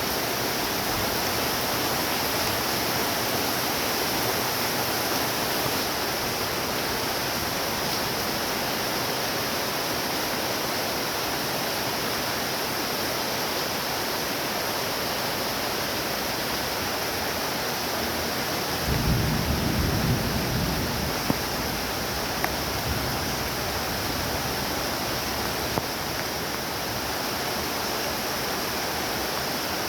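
Heavy rain falling steadily on trees, a dense even hiss. About two-thirds of the way through, a low rumble swells for a couple of seconds and fades, with a few sharp drips or taps after it.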